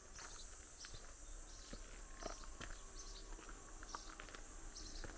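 Faint, irregular footsteps, soft taps and scuffs, with a steady high hiss behind them and a few brief high chirps.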